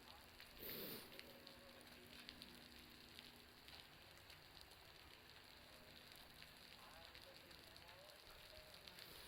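Faint crackling patter of a bonfire mixed with meltwater dripping from a roof behind it, the drips sounding much like fire crackle. A short louder sound comes about a second in.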